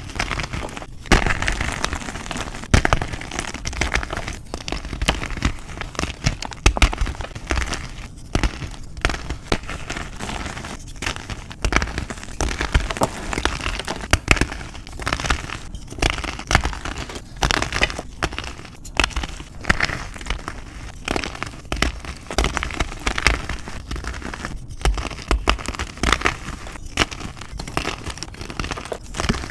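Reformed gym chalk being crushed and crumbled, a dense run of crisp crackles and sharp snaps in repeated squeezes with short breaks every second or two.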